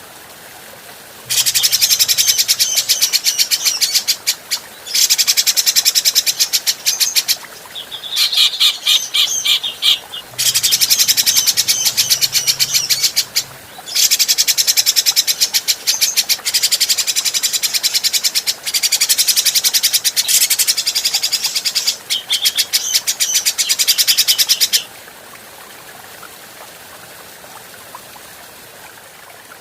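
Grey-cheeked bulbul (cucak jenggot) singing a series of loud, rapid chattering phrases, each made of fast-repeated high notes, for about twenty-three seconds. The song stops near the end, leaving a faint steady hiss.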